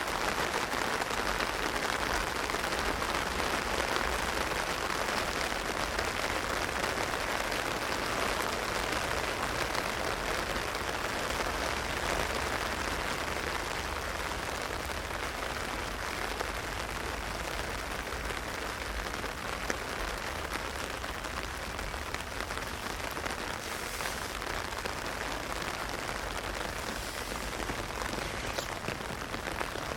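Heavy rain falling steadily on an umbrella, growing slightly quieter in the second half.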